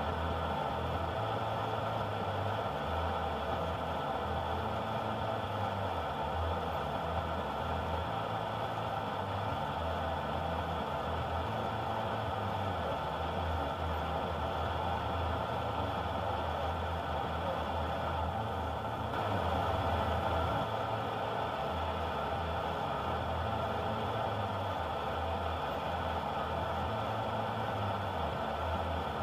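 A car's engine idling steadily, heard from inside the cabin through the dashcam's microphone, with a low, uneven throb.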